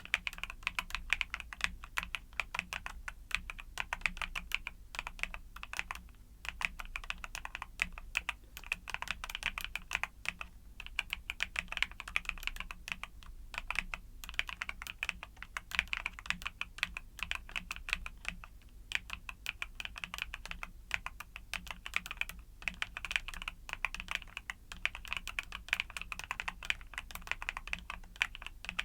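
Fast, continuous typing on a mechanical keyboard with YUNZII Cocoa Cream switches: a dense stream of key clicks broken by a few short pauses.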